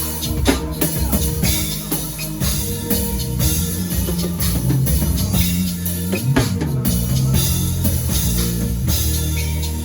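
Live worship band music: a drum kit plays busy strikes and fills over steady low bass and keyboard tones.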